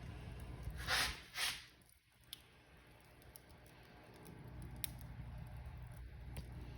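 Fireplace wood fire crackling over a low rumble, with scattered sharp pops and two louder rushing crackles about a second in.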